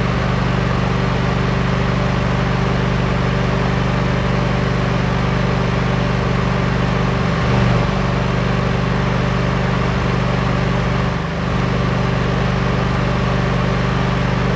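Wood-Mizer LT15 sawmill's newly installed Kohler 19 hp engine running steadily.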